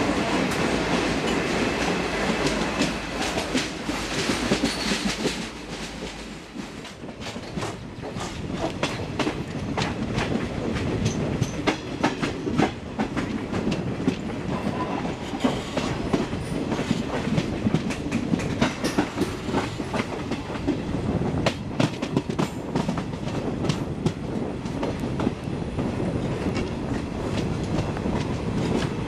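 Express passenger coach running at speed, its wheels clicking over rail joints. A dense, loud rumble in the first few seconds eases about six seconds in, as the train leaves a tunnel for open track.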